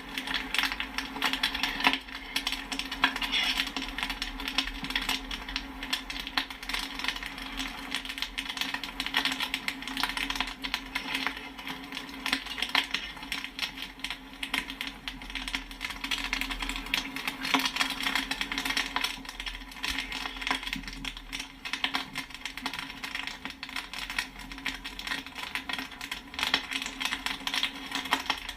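Popcorn kernels popping and pinging, a dense, continuous run of sharp little pops and clicks, with a steady low hum underneath.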